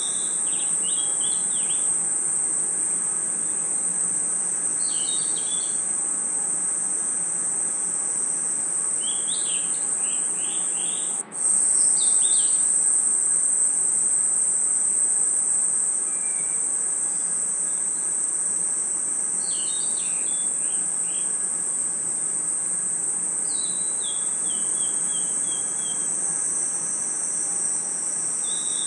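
Dense, steady chorus of crickets and other night insects chirring, with short clusters of higher chirping calls every few seconds, including a run of falling notes a little before the end. About eleven seconds in the chorus cuts out for an instant and comes back slightly louder.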